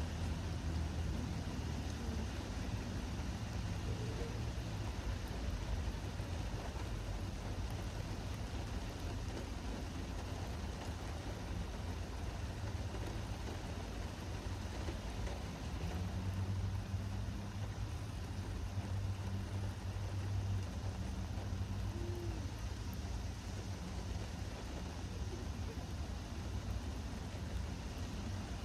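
Steady hiss of rain falling, with a low motor hum underneath that swells for a few seconds past the middle.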